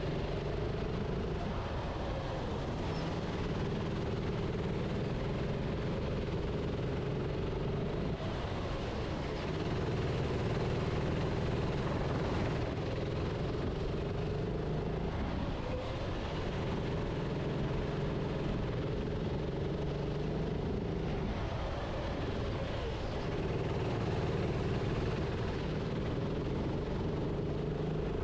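Racing kart engine heard onboard, running continuously at speed. Its note rises and falls with throttle, dipping briefly several times as the kart slows for corners.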